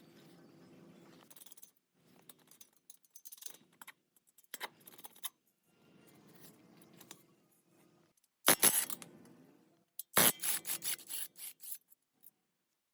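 Hand-tool work on car parts: short bouts of scraping and rubbing with small clicks, then two loud clattering knocks about eight and a half and ten seconds in.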